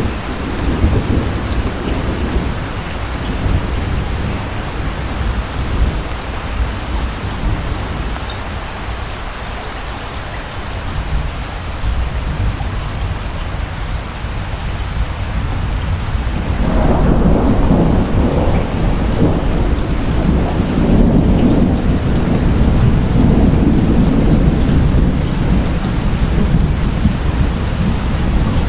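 Steady rain with distant thunder: one rumble about the start, then a longer, louder roll of thunder from a little past halfway that rumbles on to the end.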